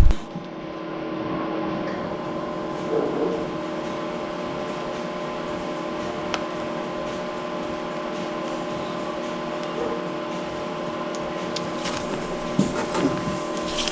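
Steady machine hum holding several fixed tones over a light hiss, with a few faint ticks and small taps.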